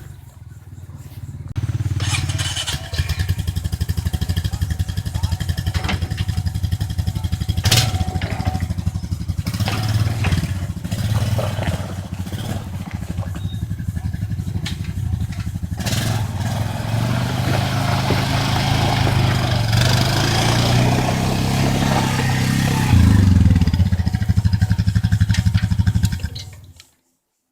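Quad bike (ATV) engine running under way, with occasional knocks and rattles. It gets louder near the end, then cuts off abruptly.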